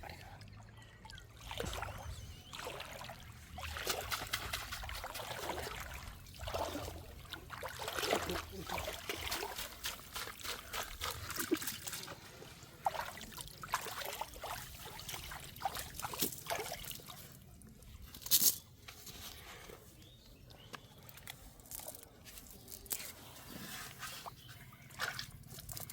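Water trickling and sloshing in irregular splashes, with one short, loud noise about eighteen seconds in.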